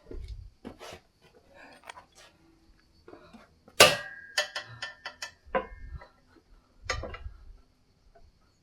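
Metal workout gear, dumbbells and weight plates, knocking and clattering as it is handled. About four seconds in, one loud metallic clank rings on for about two seconds, followed by a few more knocks.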